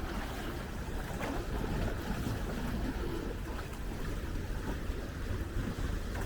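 Wind rumbling on the microphone over a steady outdoor wash of noise at the seaside.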